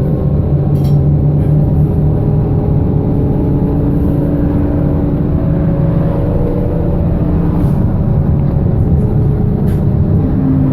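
BKM-221 trolleybus under way: a steady low rumble of running gear and road noise, with the electric traction drive's whine holding several tones that drift slightly in pitch as the speed changes.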